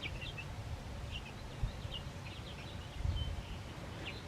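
Birds giving many short, high chirps, scattered throughout, over a low outdoor rumble with a couple of soft bumps.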